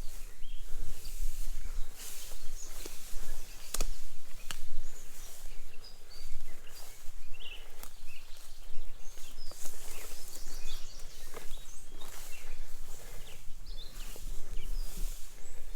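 Footsteps and rustling of someone walking through a junkyard, irregular sharp crunches and clicks over a steady low rumble, with a few short bird chirps.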